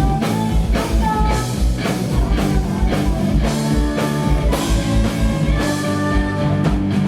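Heavy metal band playing live: electric guitars holding notes over bass and a drum kit with quick kick drum beats, ending in a rapid drum fill.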